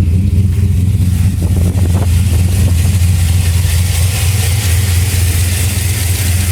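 Turbocharged 2002 Chevrolet Silverado V8 engine idling steadily, with an even low-pitched note.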